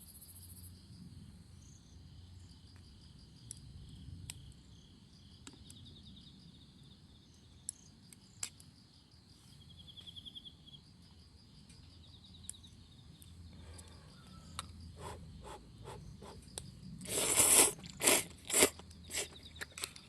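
Insects chirping steadily, with a short pulsed trill about halfway through. In the last six seconds a run of about eight loud, short noises rises over them.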